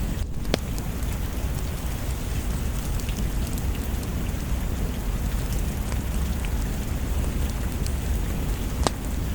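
Steady heavy rain with a deep low rumble under it, and a few sharp clicks, one near the start and one near the end.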